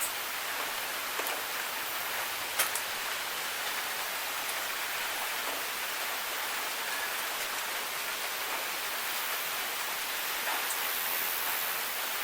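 Steady rain falling: an even hiss, with a few sharper drop ticks here and there, the loudest about two and a half seconds in.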